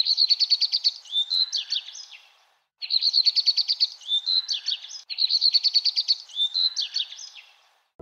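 A songbird singing: a rapid run of high repeated notes ending in a few slurred notes, the same phrase three times over with a short pause after the first.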